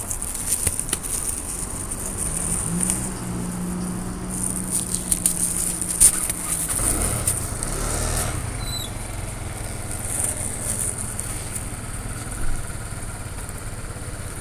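A steady motor hum that drops to a lower pitch about seven seconds in and then holds, with scattered light clicks.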